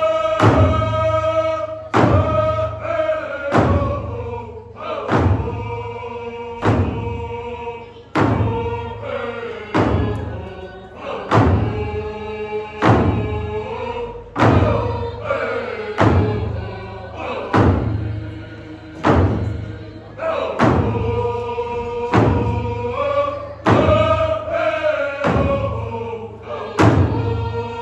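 A group of voices singing together over a drum struck in a slow, steady beat, a little under one strike a second.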